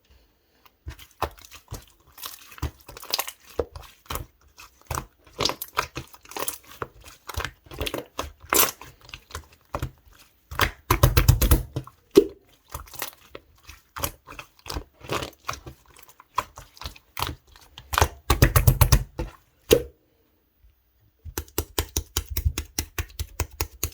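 Clear slime being pressed and squished by hand: a run of sticky clicks and small pops, breaking into bursts of fast clicking three times, near the middle, about three-quarters through and near the end.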